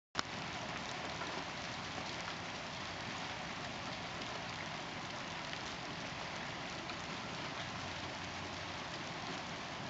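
Hail falling steadily with rain, a dense even patter of ice pellets striking the ground. A single sharp click right at the start.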